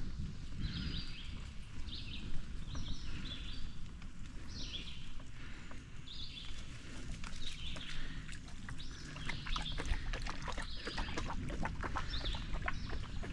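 A songbird singing short slurred whistled notes about once a second, over a steady low rumble. A quick run of clicks and ticks comes about two-thirds of the way through.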